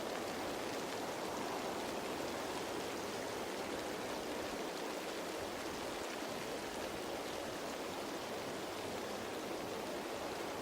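Steady rain falling on leaves, a continuous even patter with faint scattered drop ticks.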